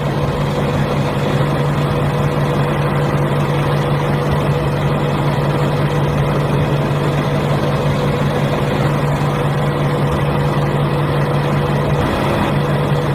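A small motor running at a steady speed: an even hum with a low drone and a thin higher whine that hold constant throughout.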